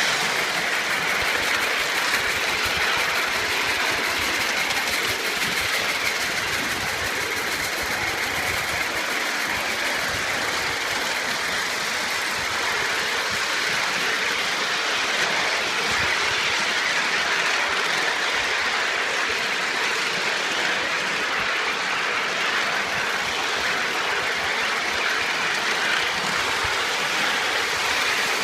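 Ride-on live steam miniature train running along the track: a steady, even running noise with no clear beat or break.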